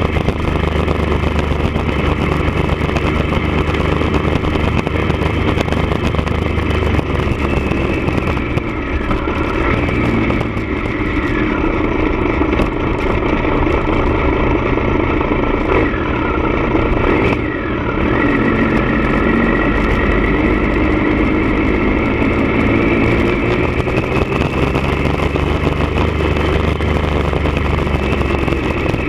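1999 Triumph Daytona 955i's inline-three engine running through a D&D aftermarket exhaust. It idles, is revved up and down a couple of times about a third and two thirds of the way through, then settles back to idle.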